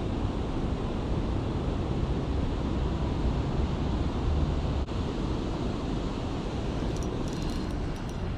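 Steady rushing noise, heaviest in the low end, with a few faint clicks near the end.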